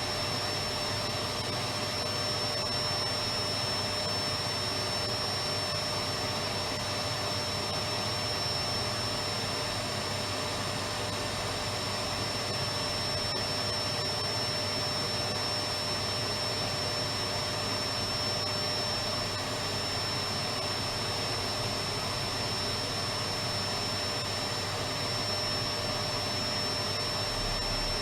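Electric vacuum cleaner running steadily: an even, unchanging rushing noise with a constant high whine from the motor.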